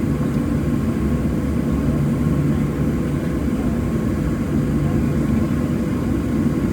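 Steady cabin noise inside a Boeing 737-700: a low rumble with a few steady hums from the CFM56 jet engines and aircraft systems, holding at an even level.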